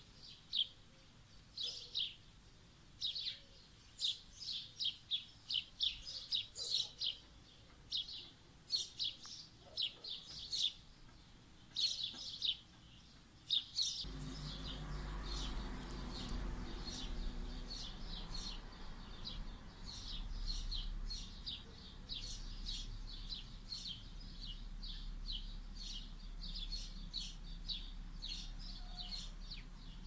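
Small songbirds chirping in quick repeated runs of short high calls. About halfway through, a low steady rumble comes in underneath.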